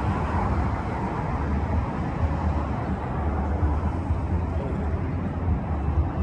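Outdoor city ambience: a steady low rumble of traffic, with wind buffeting the microphone.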